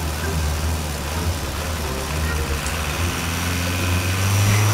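Truck engine idling steadily with a low hum, over a steady hiss of falling rain. The engine note swells near the end.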